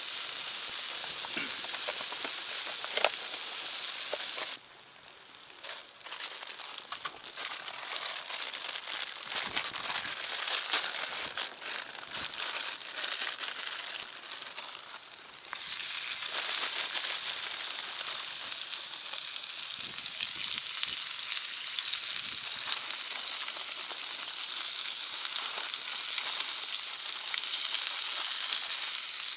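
Meat sizzling on a hot Genghis Khan grill pan over a wood fire: a steady high hiss that drops sharply about four seconds in to a quieter run of scattered crackles and pops, then comes back loud about fifteen seconds in.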